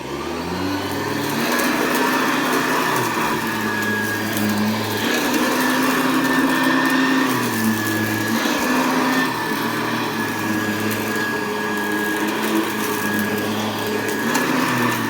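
1982 Hoover Convertible U4315 upright vacuum cleaner starting up, its motor rising to speed in the first second, then running steadily on carpet with a constant high whine. The low hum dips and shifts in pitch every few seconds.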